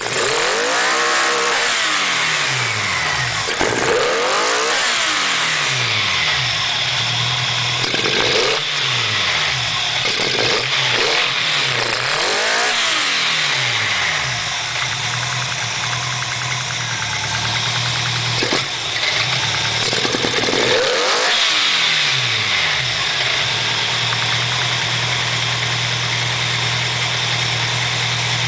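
Subaru STI flat-four engine on individual throttle bodies, blipped repeatedly so the revs rise and fall every few seconds, with stretches of steady idle between the blips and a longer steady idle near the end.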